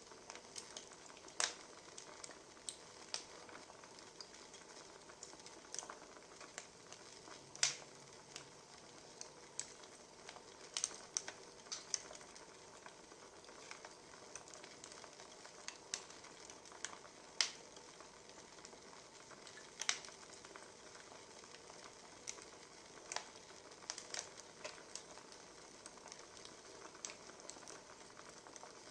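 Burning firewood crackling: irregular sharp pops and snaps over a faint steady hiss.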